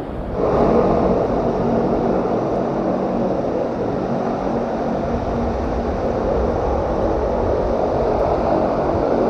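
Aircraft engines running steadily, a dense rushing noise with a faint low hum, getting louder about half a second in.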